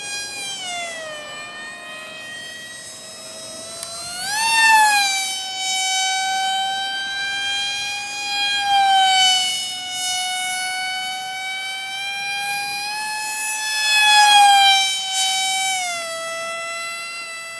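Electric motor and propeller of an RC airplane whining steadily. The pitch dips early, jumps up sharply about four seconds in and again near the end, and settles back each time.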